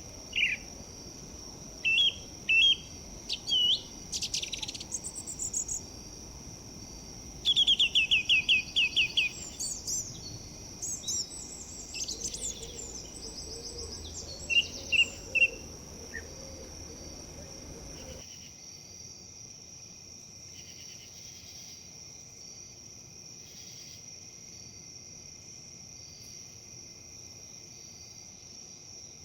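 Songbirds chirping and trilling in short calls over a steady high insect drone and a soft rustling hiss of wind in leaves. The birdsong stops about 16 s in, and the rustle drops away suddenly around 18 s, leaving only the insect drone.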